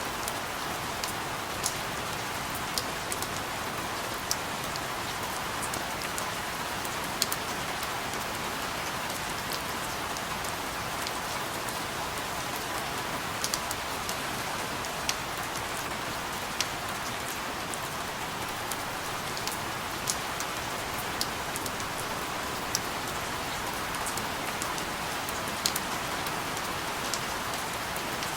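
Steady rain falling, an even hiss with scattered sharp drop ticks hitting a surface.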